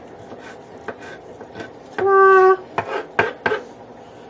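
Kitchen knife slicing and scraping through crushed garlic on a cutting board, followed by three sharp knocks about three seconds in.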